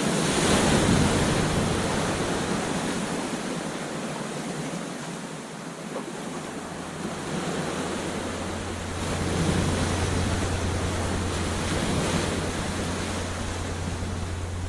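Ocean surf breaking and washing up a beach, rising to a crash near the start and again about two-thirds of the way through.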